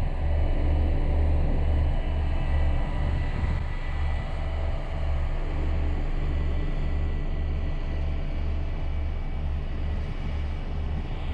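Heavy farm machinery engine running steadily, with a low rumble that pulses evenly and a faint steady high whine, as during silage harvest and bunker filling.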